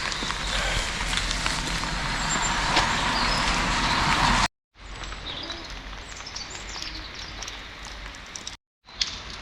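Wet road noise with a vehicle's tyres hissing, growing slightly louder until it cuts off about four and a half seconds in. After the cut comes quieter outdoor background with a few faint bird chirps.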